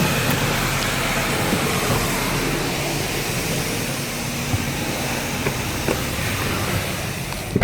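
Steady rushing hiss of a self-service car wash bay, with no distinct strokes or changes. Near the end a car door shuts with a single thud, and the hiss is cut off.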